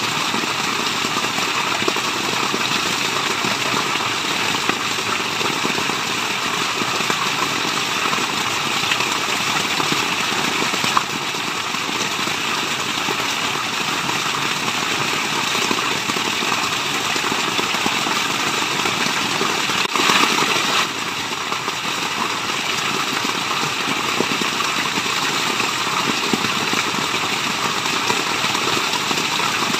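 Waterfall: a steady rush of falling water, briefly a little louder about twenty seconds in.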